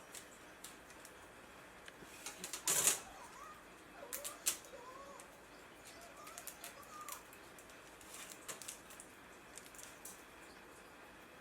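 Light clicks and knocks of objects being handled, with a short rustle about three seconds in and a few faint squeaky chirps in the middle.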